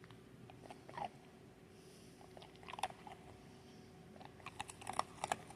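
Dachshund chewing crunchy food: scattered crunches about a second in and near the middle, then a quick run of crunches near the end.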